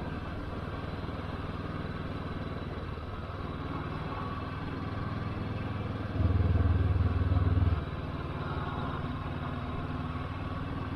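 Motorcycle engine running steadily while riding, swelling louder for about a second and a half past the middle.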